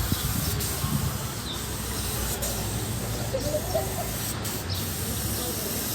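Steady background hiss with a few faint, short sparrow chirps.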